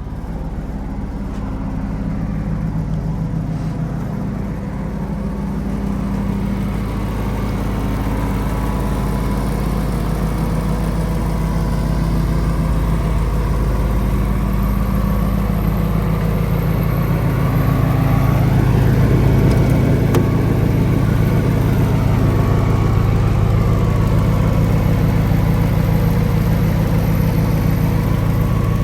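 Kenworth T270's PACCAR PX-7 inline-six diesel engine running steadily, growing gradually louder over the first twenty seconds or so.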